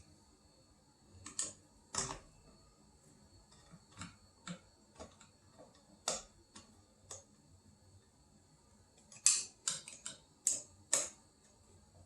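Scattered light clicks and taps of screws and a screwdriver as ceiling fan blades are fastened onto the fan, with a quick run of clicks about nine to eleven seconds in.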